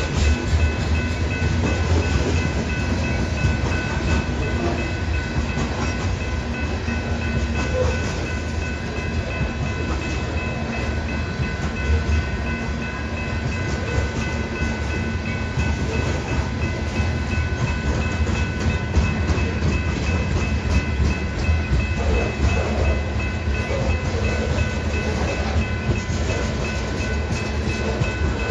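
A long BNSF grain train of freight cars rolling past: a steady low rumble of wheels on rail with dense clicking over the joints, and a few faint steady high tones held throughout.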